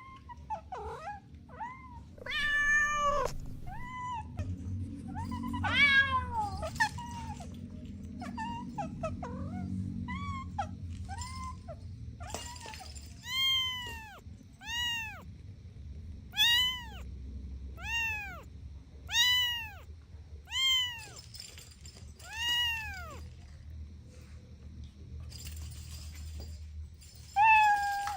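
A cat meowing over and over: a few varied calls, then a run of about eight evenly spaced meows, each rising and falling in pitch, roughly one every second and a half. A low steady rumble runs underneath.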